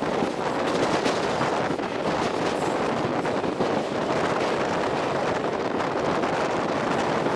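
Steady wind rushing over the microphone from the open door of a moving MEMU electric commuter train, over the train's running noise on the track.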